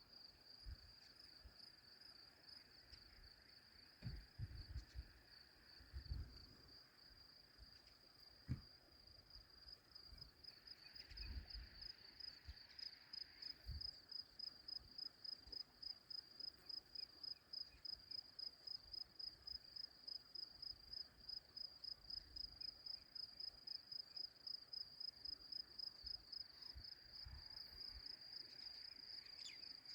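Crickets chirping steadily in a high, thin trill that settles into a regular pulse of about two or three chirps a second, with a few soft low thumps in the first half.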